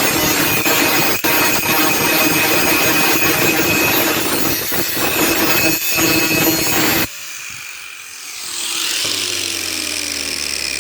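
Electric grinder grinding the steel of a saw-blade knife blank, a loud steady hum with grinding noise. It cuts off suddenly about seven seconds in, and the motor's pitch then falls as it winds down.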